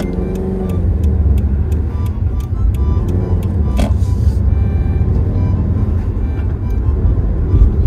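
Cabin drone of a Subaru WRX STI's turbocharged flat-four engine and tyres while driving, with background music playing over it with an even beat.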